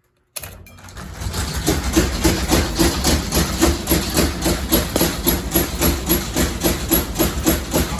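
Damaged hugger-style ceiling fan spinning up and running fast, with a rhythmic knocking about four times a second.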